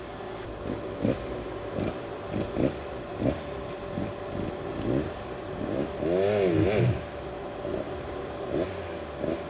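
Dirt bike engine revving in a string of short throttle blips, with a longer, louder rev about six seconds in.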